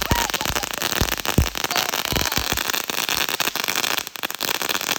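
Mad Dog firework fountain, fallen over on the ground, spraying with a loud, dense crackle and several deeper pops.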